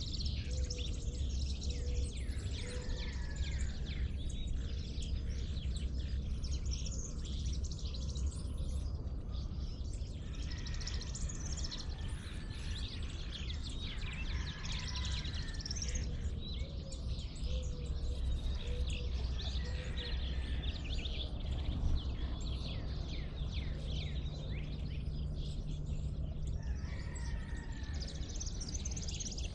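Dawn chorus: many songbirds chirping and singing over one another, with a steady low rumble underneath.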